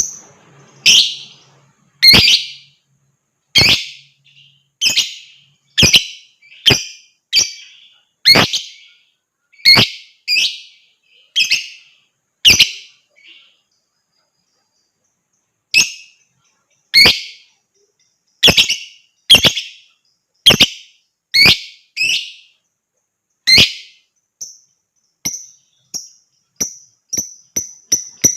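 Lovebird giving loud, sharp single shrieking chirps about once a second, with a short pause midway. Near the end come quicker, higher chirps.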